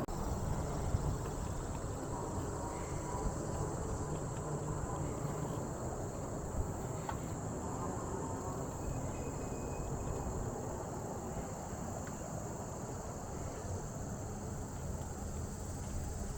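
Steady high-pitched insect chorus over the low rumble of a bicycle riding along a trail.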